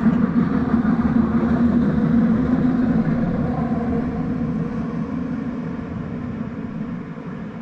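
A train passing, a steady rumble that is loudest at first and slowly fades as it goes away.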